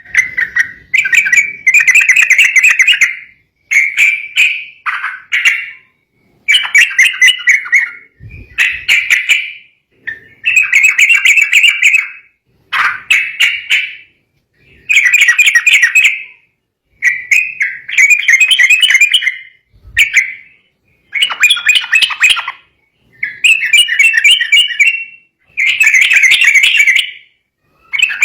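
Yellow-vented bulbul (trucukan) singing loud, bubbly chattering phrases one after another, each lasting a second or two with short pauses between. An agitated song of the kind used to provoke rival bulbuls into singing.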